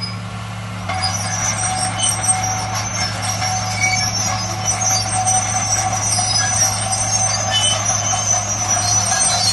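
Heavy diesel earthmoving machinery running: a steady low engine hum with thin high-pitched metallic whines over it. The hum gets louder about a second in.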